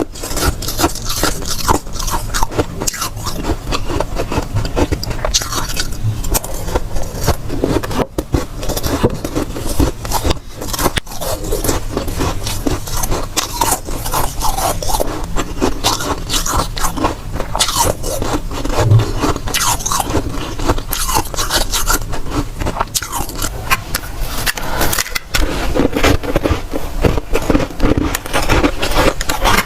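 Dry, soft freezer frost being bitten and chewed close to the microphone: a dense, continuous run of fine crunches and crackles, broken by a few brief gaps.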